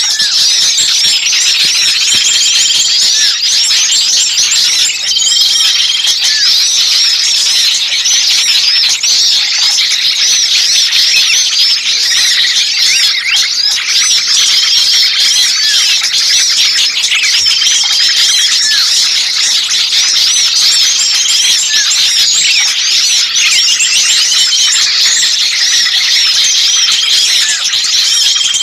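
Bird-lure recording of many small songbirds calling at once in an agitated, noisy chorus, with rapid overlapping chirps and squeaks. A short level whistle repeats every two to three seconds.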